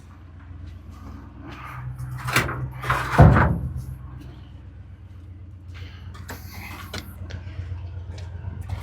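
Tow truck engine running steadily under a truck camper being lifted, with creaks and knocks and one heavy clunk about three seconds in as the camper shifts and catches on its supports.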